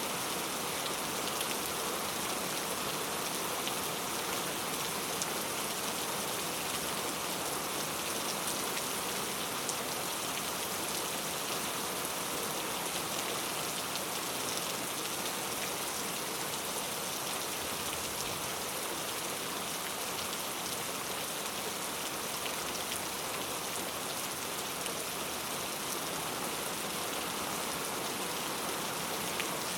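Steady rain falling, an even hiss with scattered individual drops tapping.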